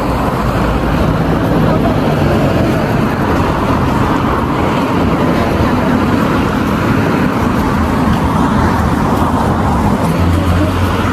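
Steady road traffic noise from cars on a city street, even and unbroken throughout.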